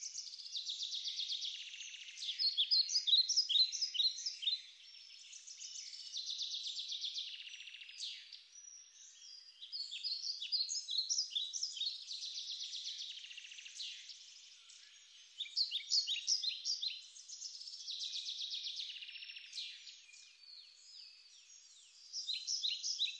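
A songbird singing in repeated phrases a few seconds long, each a rapid trill followed by a string of quick, sharp falling notes.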